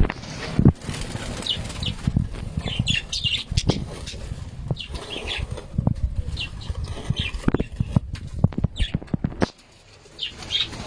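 Farm birds moving about with short high calls and squawks, wing-flapping and many irregular knocks and thumps. The sound drops away briefly near the end.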